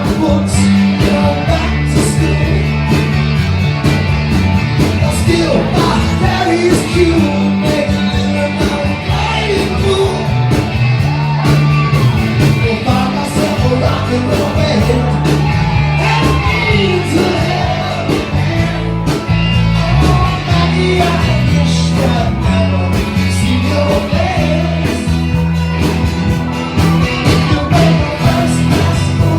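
A rock song performed live, with voices singing over a band's steady bass line and drums.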